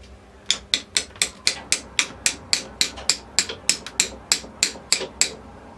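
Hammer tapping repeatedly on a transmission part, about eighteen quick, evenly spaced strikes at roughly four a second, as a part is driven into place.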